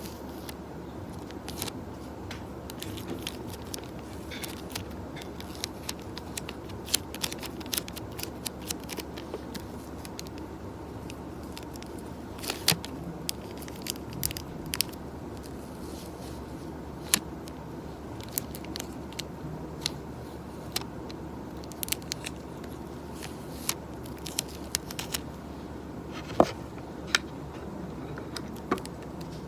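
Scattered, irregular sharp clicks and taps of small objects being handled at a desk, over a steady low background hum.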